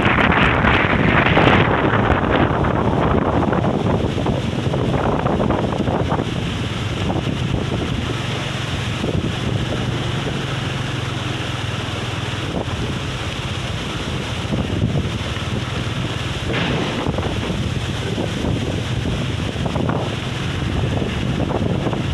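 Strong onshore wind buffeting the microphone in heavy gusts, with surf rumbling underneath. The gusts are strongest in the first couple of seconds, then settle into a steady roar.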